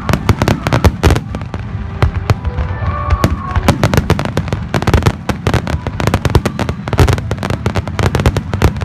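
Fireworks bursting in rapid, dense succession, many cracks a second over a continuous low rumble.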